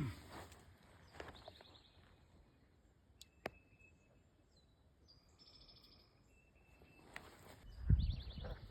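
A bird trilling three times in short runs of rapid high notes over faint outdoor background, with low thumps of handling or footsteps near the end.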